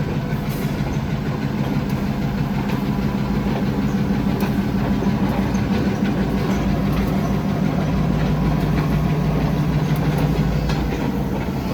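Diesel locomotive of a short freight train running steadily as it passes, its engine drone growing louder toward the end and then easing off.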